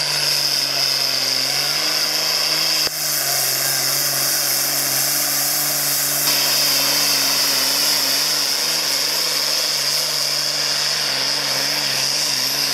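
A pulling tractor's diesel engine running hard and steady under load as it drags the weight sled, its pitch holding nearly level with a slight waver, and a steady high whine over it.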